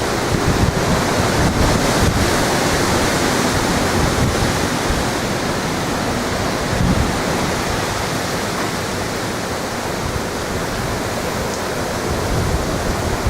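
Hurricane-force wind blowing hard and steadily, with gusts buffeting the microphone in an irregular low rumble.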